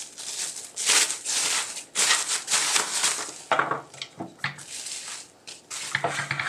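Rustling and crinkling of packaging being handled, in irregular bursts with short pauses between.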